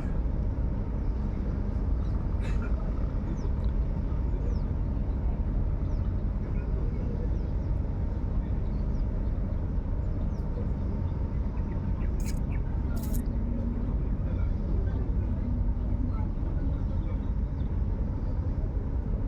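Steady low engine rumble, with a faint steady hum over it and two brief clicks about twelve and thirteen seconds in.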